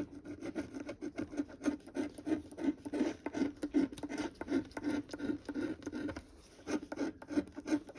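Scratch-off lottery ticket being scratched: rapid short scraping strokes, about three to four a second, pausing briefly about six seconds in.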